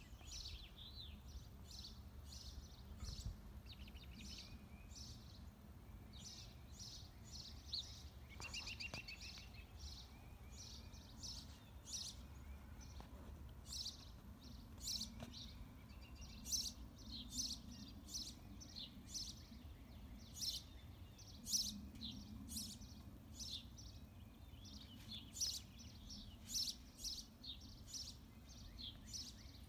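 Small songbirds chirping, many short high chirps at irregular intervals, with a brief trill about a third of the way in, over a faint low rumble of background noise.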